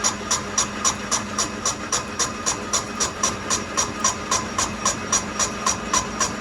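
Rhythmic metal-on-metal striking at a steady pace of between three and four strikes a second, each strike with a short bright ring.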